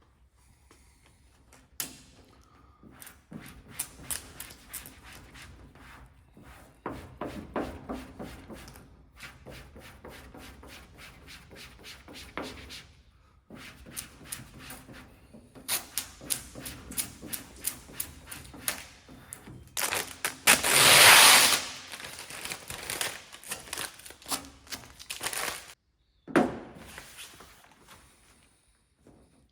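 Many sharp clicks and knocks of hands-on work, with a loud rushing noise lasting about two seconds roughly two-thirds of the way in.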